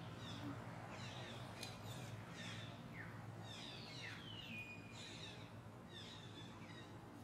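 Birds chirping: a run of short, high calls that slide downward, about two a second, over a faint steady low hum.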